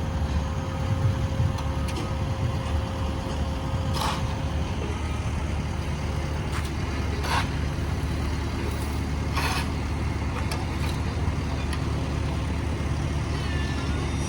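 Heavy diesel paving machinery running with a steady low rumble, with several short sharp knocks or clanks scattered through it.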